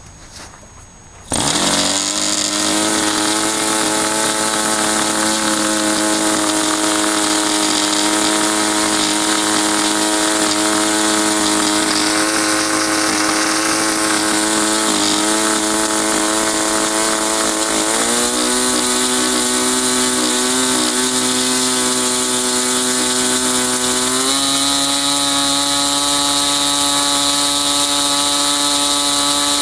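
K&B 65 Sportster two-stroke glow model-airplane engine bursting into life a little over a second in, then running steadily with its propeller turning, its pitch stepping up twice in the second half. The long-stuck engine still runs well.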